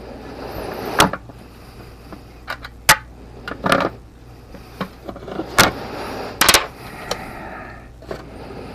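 Handling noise from a 3D-printed plastic helmet and painting tools being moved about: several sharp knocks and clicks over soft rubbing and shuffling.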